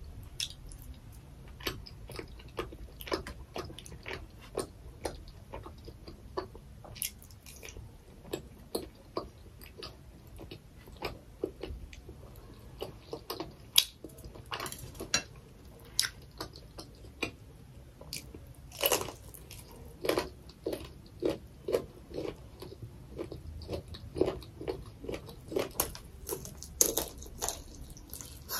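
Close-up eating sounds from a person chewing and biting spicy rice cakes and fried noodles: many short, sharp wet mouth clicks of uneven loudness.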